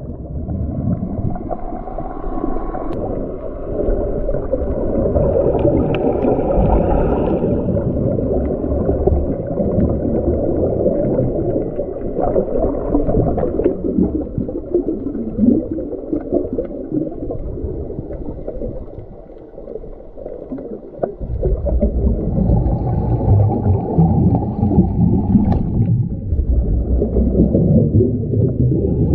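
Muffled underwater rushing and gurgling of water against a submerged camera during a scuba descent, with scattered small clicks. It drops away briefly about two-thirds of the way through, then comes back louder.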